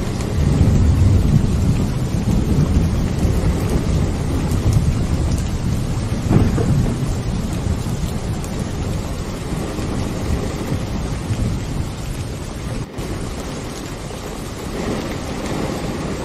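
Steady rain with low rolling thunder. The rumble is loudest in the first two seconds and swells again about six seconds in.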